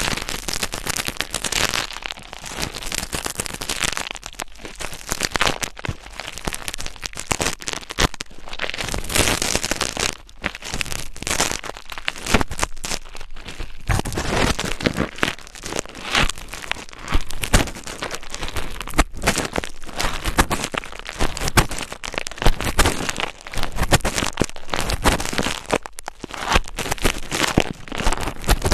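Dense, close-miked crackling and scratching of an ASMR trigger, uneven and without a steady rhythm.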